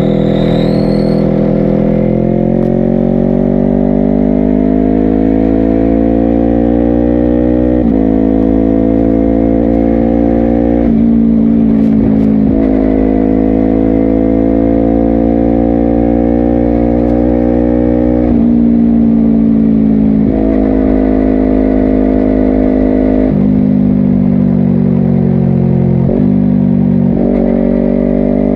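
Honda CBR250RR parallel-twin engine through a Yoshimura aftermarket exhaust, ridden under load. Its pitch climbs gently, then breaks off sharply at gear changes several times, over low wind rumble.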